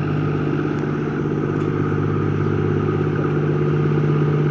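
A boat's engine running steadily: a constant, even low drone that does not change in pitch or level.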